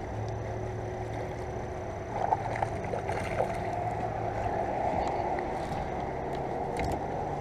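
Steady rushing of water around a fishing kayak, with a few light clicks and knocks.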